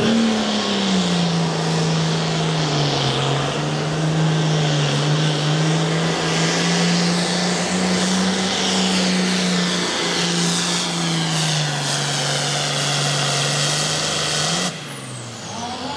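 Turbocharged diesel pulling tractor running flat out under load as it drags the weight sled, its engine note holding high and steady. About fifteen seconds in, the throttle is cut and the engine note drops away suddenly with a falling pitch.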